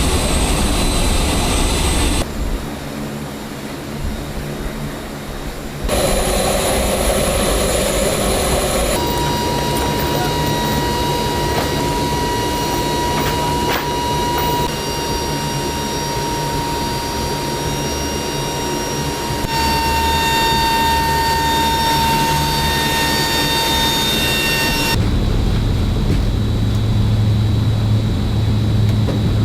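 Aircraft engine noise from a C-130J Super Hercules's turboprop engines running. The sound changes abruptly several times, with a steady high whine through the middle part and a deeper, heavier engine note near the end.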